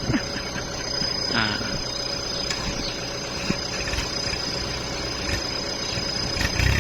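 Kubota tractor engine running steadily, growing louder near the end.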